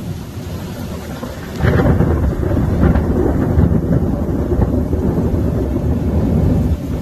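A loud thunderclap breaks about one and a half seconds in and rumbles on for about five seconds over steady heavy rain.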